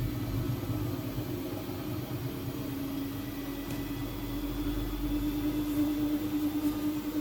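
Siemens Siwamat IQ 716 washing machine running, its drum motor giving a steady hum with a low rumble under it.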